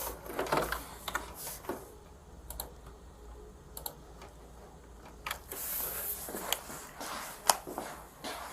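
Typing on a computer keyboard: irregular key clicks, sparser through the middle.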